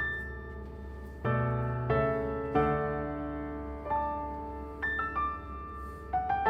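Soft background piano music: slow single notes and chords, each struck and left to ring out.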